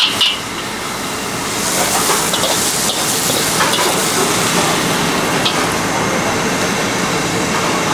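Food sizzling and hissing in a hot wok as it is stir-fried, over the chatter of a busy night market crowd.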